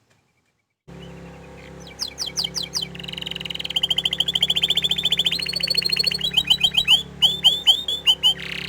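Domestic canary singing: fast runs of high, downward-sweeping notes, rolling trills and a briefly held whistle. The song starts about two seconds in, over a steady electrical hum that begins after a silent first second.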